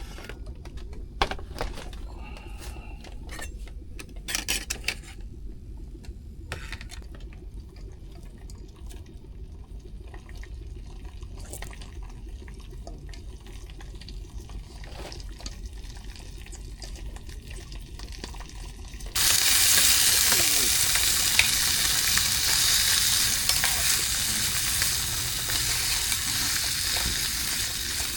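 Light clicks and knocks, then about two-thirds of the way in a loud, steady sizzling hiss starts suddenly: food frying in hot oil.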